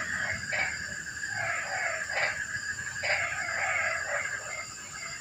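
Frogs calling in a dense, loud chorus, with harsh croaks standing out over it about half a second, two seconds and three seconds in.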